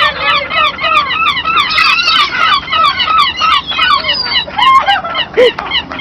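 A large flock of birds calling all at once: a dense, continuous clamour of many short, overlapping calls, thinning slightly in the last second or so.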